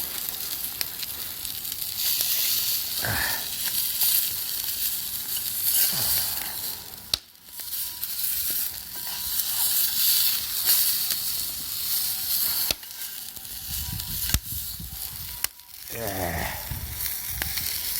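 Food sizzling steadily while it cooks over a campfire, a continuous frying hiss with scattered crackles and pops.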